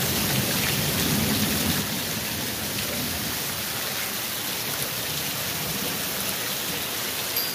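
Heavy rain falling steadily, a little louder for the first two seconds.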